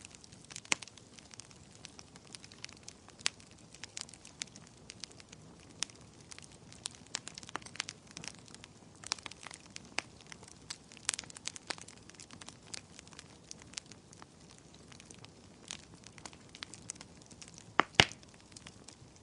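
Wood fire in a fireplace crackling, with irregular sharp pops and snaps over a soft steady hiss; a loud double pop near the end.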